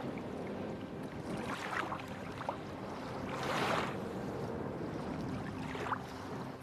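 Wind on the microphone and lake water washing at the shore, with a louder rush of wind about three and a half seconds in.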